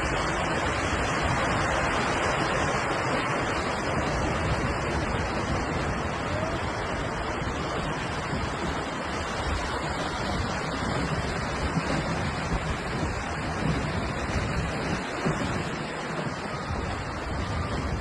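Floodwater rushing down a swollen river: a steady, dense rush of water.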